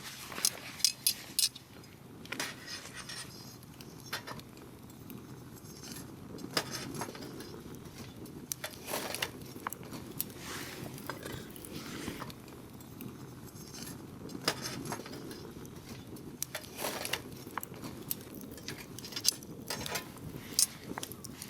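Wood campfire burning: firewood crackling and popping in irregular sharp snaps over a low steady rush of flame. Louder pops come in small clusters at the start, around the middle and near the end.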